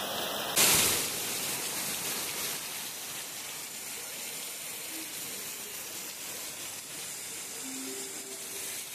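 Heavy rain pouring down: a steady, even hiss that jumps louder about half a second in, then settles.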